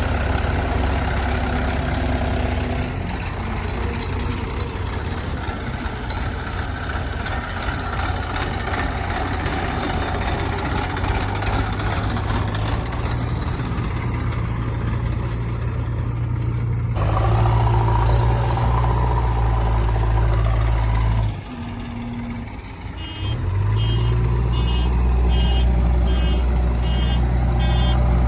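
Heavy diesel engine of earthmoving machinery running steadily. Its sound changes abruptly about two thirds in, then dips briefly and picks up again. Near the end an electronic reversing beeper sounds about twice a second over it.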